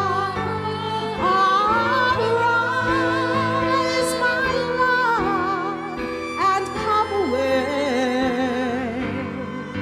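A woman singing a slow gospel ballad with a wavering vibrato and sliding notes, over a keyboard accompaniment.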